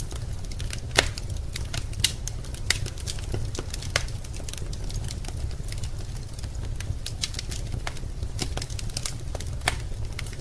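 Wood fire burning in a fireplace, crackling with irregular sharp pops over a steady low rumble; a few pops stand out louder, about a second in, around two and four seconds, and near the end.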